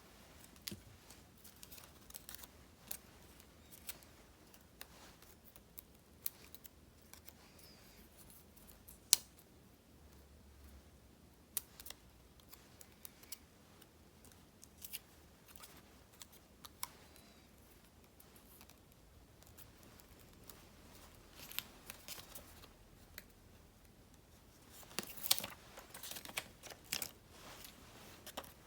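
Scissors snipping sticker paper in short, scattered cuts with small clicks between them, growing busier near the end.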